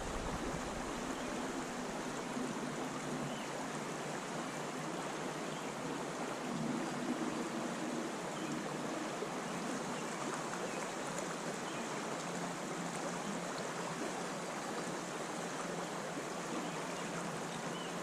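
Small creek water running and trickling steadily.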